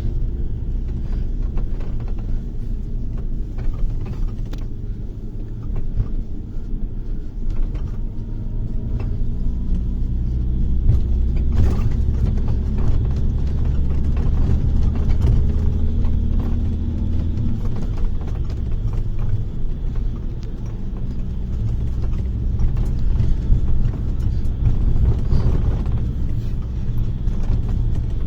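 Bus engine and road rumble heard from inside the cabin while driving. It is a steady low drone, with the engine's pitch drifting up and down a little partway through.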